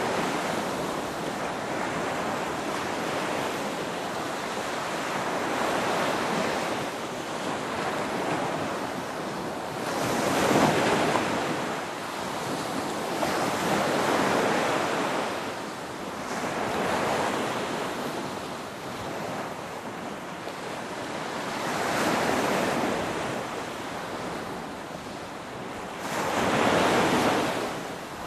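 Ocean waves breaking and washing in over and over, a steady rush of surf that swells every few seconds. The strongest breakers come about ten seconds in and near the end.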